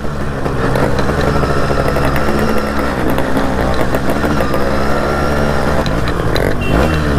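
Two-stroke Yamaha RX motorcycle engines running steadily under way.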